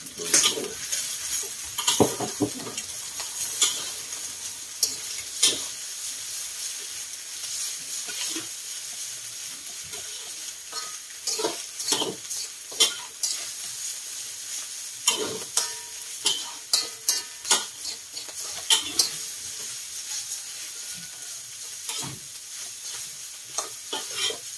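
Maggi instant noodles and egg frying in steel woks with a steady sizzle, while metal utensils scrape and clink irregularly against the woks as the noodles are stirred and tossed.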